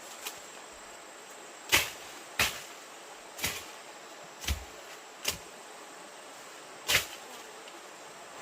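Six sharp knocks at uneven intervals, over a steady high insect drone.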